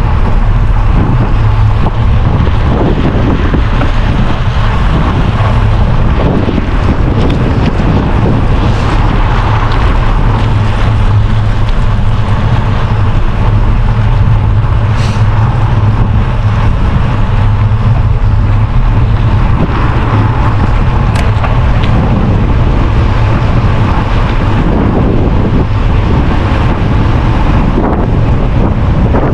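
Wind buffeting the microphone of a camera carried on a moving bicycle: a loud, steady rushing rumble.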